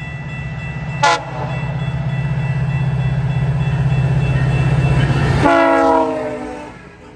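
A GO Transit train passing with its horn: a brief toot about a second in, then a longer blast near the end that drops in pitch as the train goes by. Under it is a loud, steady heavy rumble from the train that cuts off as the second horn begins.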